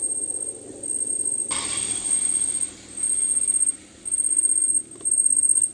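An insect trilling with a steady, high-pitched tone in a run of repeated trills, each under a second long, separated by short pauses. A brief rush of noise comes about a second and a half in.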